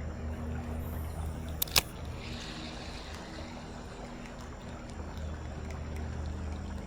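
Canoe on creek water with a steady low rumble of water and wind, and a sharp double click or knock a little under two seconds in.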